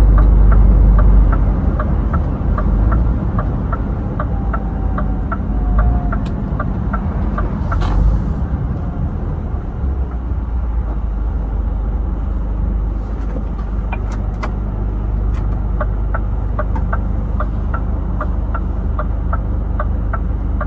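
Inside a Scania truck cab: steady low engine and road rumble, with the turn-signal indicator ticking about two to three times a second for several seconds. A short air hiss comes about eight seconds in, and the indicator ticks again for the last several seconds.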